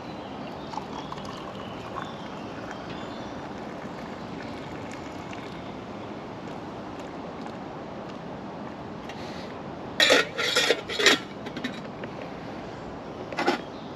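Cooking pots and utensils being handled, clinking and knocking together: a quick run of clatters about ten seconds in and one more near the end, over a steady outdoor hiss.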